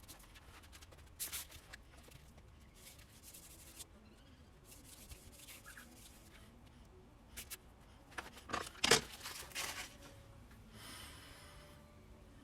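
Steel broadhead being rubbed on sandpaper in short bursts of scraping strokes, taking off its black oxide coating. The strokes come in separate clusters, with the loudest about nine seconds in.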